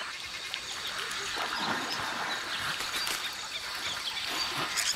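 Outdoor wildlife ambience: birds calling over a steady natural background hiss.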